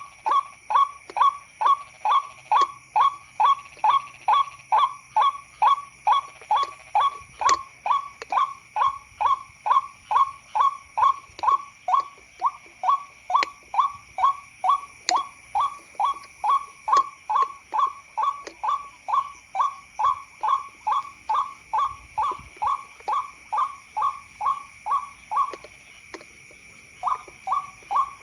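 White-breasted waterhen (ruak-ruak) calls, as played for a lure: a long run of short, downward-sliding calls, about two a second. They stop briefly near the end and start again, over a steady high-pitched drone.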